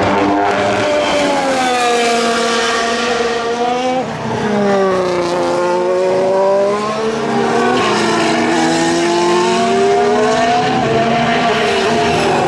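Formula 1 cars' 1.6-litre turbocharged V6 hybrid engines running at racing speed, the pitch sinking and climbing again twice, as cars slow for a corner and accelerate away.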